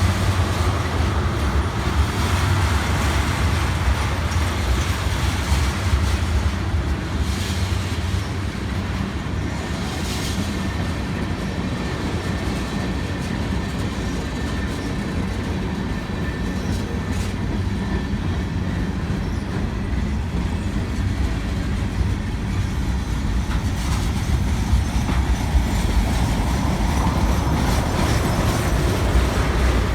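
Long freight train rolling past, its steel wheels running steadily on the rail, with a faint thin squeal for several seconds in the middle.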